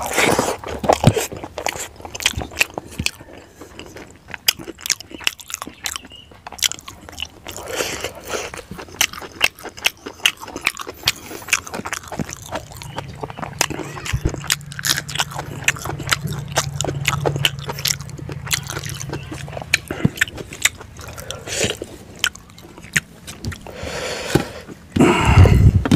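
Close-up eating sounds: chewing and lip-smacking as rice is eaten by hand, a steady run of short wet clicks.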